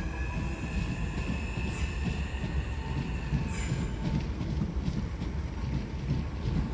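Class 465 Networker electric multiple unit pulling away and running past, a steady low rumble of wheels on track with a high whine that fades out about three and a half seconds in, and a few sharp clicks.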